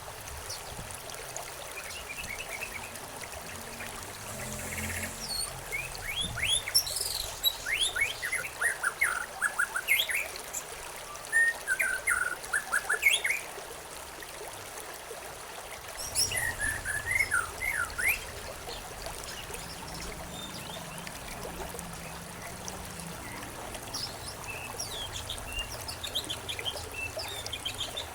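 Small birds chirping in flurries of quick, falling notes over a steady trickling stream. The calls are busiest in the first half, come again in a short burst later, and are fainter near the end.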